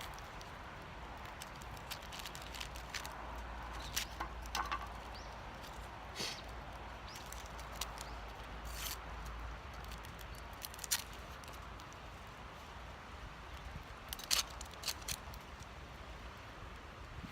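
Small wood fire in a Firebox stove crackling, with irregular sharp pops and snaps over a steady outdoor hiss.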